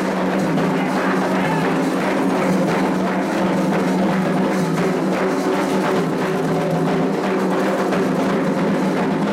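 Candomblé ritual music: atabaque hand drums and a struck percussion part playing a steady, driving rhythm under singing, the chant calling the orixá Iansã.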